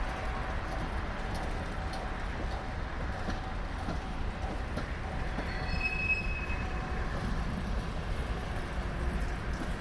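Mixed freight train rolling past with a steady rumble of cars on the rails. About halfway through, a wheel gives a brief, high squeal lasting about a second.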